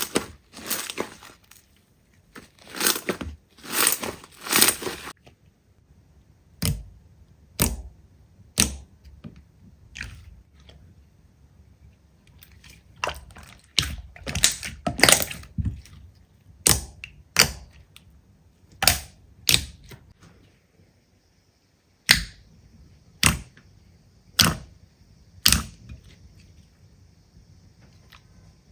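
Slime being pressed and handled, giving a series of sharp pops and clicks: irregular and bunched at first, then about one a second near the end.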